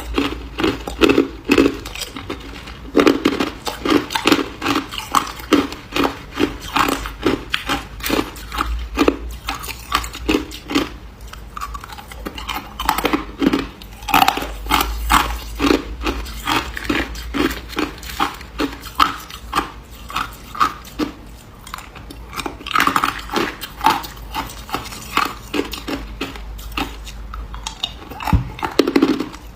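A person biting and chewing ice, with sharp crunches coming two or three times a second in a steady run.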